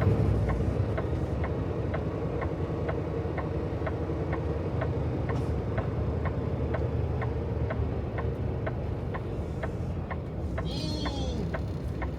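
A semi truck's turn signal ticking steadily, a few clicks a second, over the low drone of the truck's engine and road noise in the cab.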